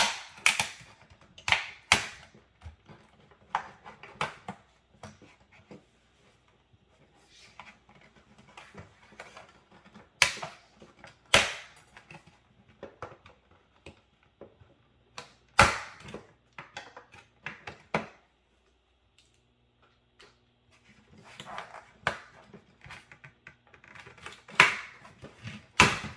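Irregular sharp clicks and knocks from computer case parts being handled and worked loose, with the loudest ones about ten seconds in, near the middle and near the end.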